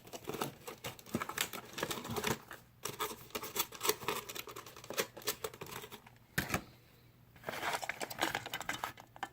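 Plastic blister packaging and a cardboard box for a die-cast model car being handled and opened: irregular crinkling and crackling with sharp clicks, easing off briefly about two-thirds of the way through before picking up again.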